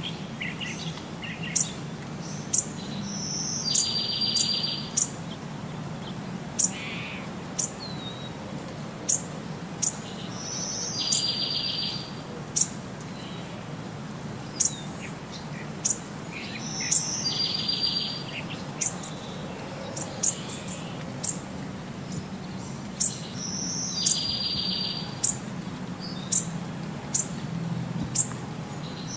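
Birds calling: sharp high chirps about once a second, and a buzzy trill of about a second that comes back every six to seven seconds, over a low steady hum.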